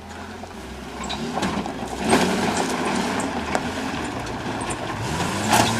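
Dodge pickup's V10 engine working hard up a steep dirt hill, its revs rising about two seconds in, easing, then climbing again near the end, with scattered sharp knocks as the truck bounces over the ground.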